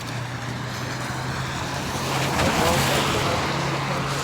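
A car passing on a wet road: the tyre hiss swells to its loudest about two and a half seconds in, then fades. A steady low engine hum runs underneath.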